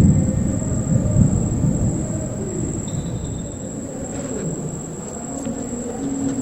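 Rolling thunder rumbling low and fading away over the first few seconds, with insects trilling steadily.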